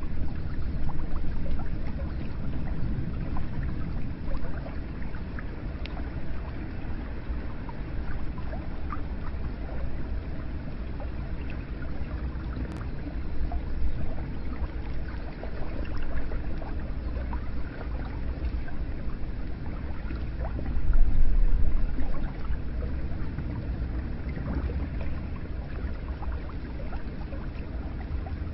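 Hot spring water pouring and trickling steadily into a bath, with a brief louder swell about two-thirds of the way through.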